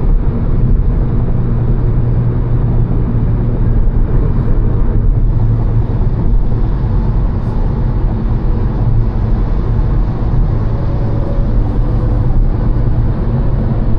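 Volkswagen Golf GTI Mk7's 2.0-litre turbocharged four-cylinder running at a steady speed, a steady low engine drone over road rumble.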